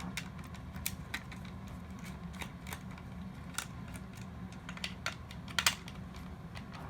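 Irregular light clicks and taps of plastic toy-robot parts being handled and worked apart during disassembly, over a faint steady low hum.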